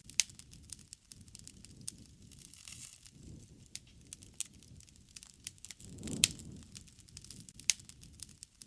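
Wood fire crackling: sharp pops and snaps scattered irregularly over a low rumble of burning. The rumble swells about six seconds in, capped by a loud pop.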